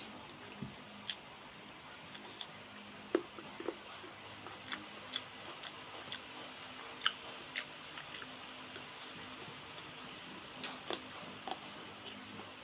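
Close-up chewing and biting of unripe mango slices: irregular short, sharp crunches and wet mouth clicks.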